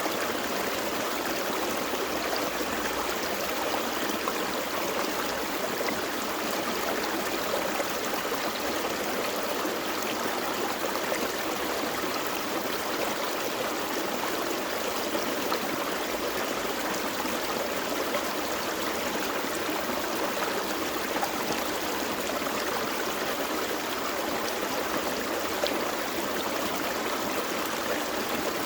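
Gentle forest creek flowing steadily over rocks, an even rush of water with light trickling.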